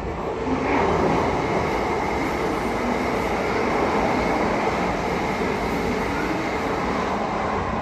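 A train running along the platform: a loud, steady rumble of wheels on the track that builds about a second in and holds, with a faint high whine over it.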